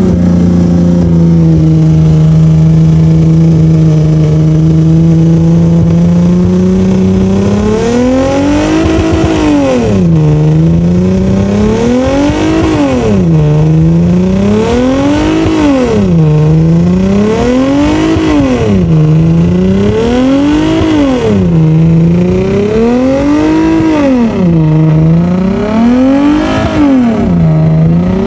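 A car engine held at steady high revs for about seven seconds, then revved up and down in an even rhythm, about once every one and a half seconds.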